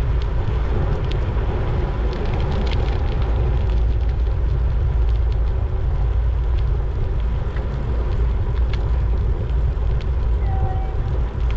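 Wind rumbling on the microphone during a bicycle ride, with tyre and road noise beneath it and a few light clicks.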